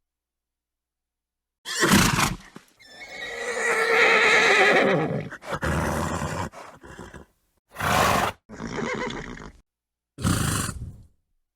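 A horse snorts, then neighs in one long whinny that falls in pitch, followed by several more short snorts, with dead silence between the sounds.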